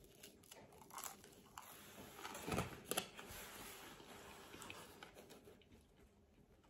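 Faint chewing and mouth sounds of a man eating pizza topped with ham, mushrooms and fries, with a few small clicks. The loudest of these come about two and a half to three seconds in.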